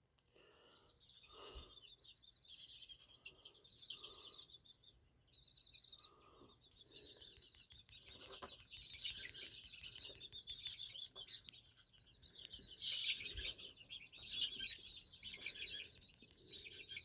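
Faint bird calls and chirping in the background, coming and going.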